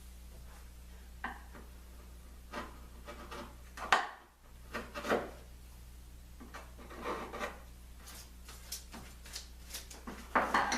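Glue squeeze-out being scraped and wiped off wood: a series of short scraping and rubbing strokes, with a sharp knock about four seconds in and a quick cluster of strokes near the end.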